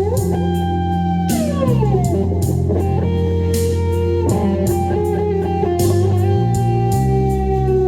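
Electric guitar lead played over a backing track of drums and bass, with held notes and pitch glides from string bends and slides.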